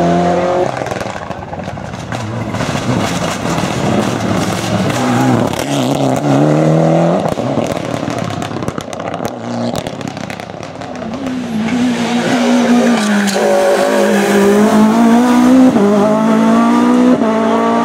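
Rally car engine revving hard and shifting through the gears, its note climbing and dropping with each shift, with tyre and road noise. It eases off briefly around the middle, then pulls hard again.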